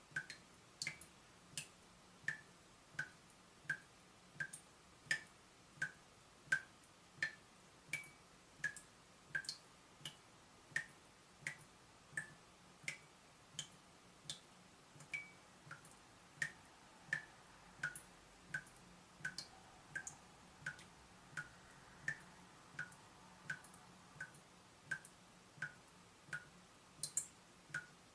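Water dripping steadily from a leaking tap, one drop about every 0.7 seconds, each landing with a short, sharp, pitched drip.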